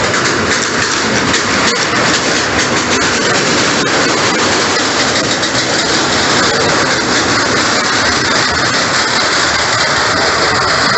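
Freight wagons loaded with steel rails rolling past, a steady rumble of wheels on track with occasional light clicks over the rail joints.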